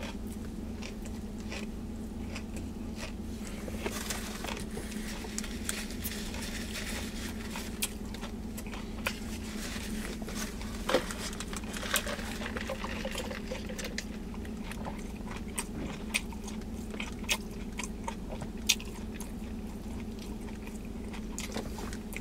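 Close-up chewing and mouth sounds of a person eating, with scattered small clicks and smacks, over a steady low hum.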